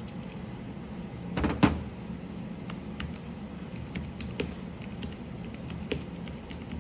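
Scattered sharp plastic clicks and clacks of a mechanical keyboard being worked on, with a louder clatter about a second and a half in.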